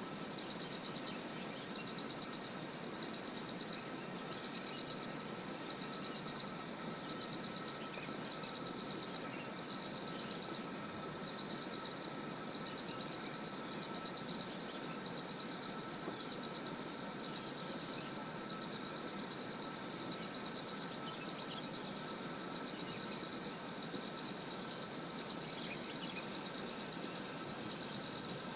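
Crickets chirping in a steady high-pitched chorus: a fast pulsing trill in runs a second or two long, with a fainter steady tone lower down.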